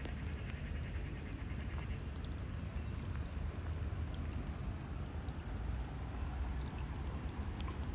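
Steady water ambience with a constant low rumble and an even hiss, with a few faint scattered ticks.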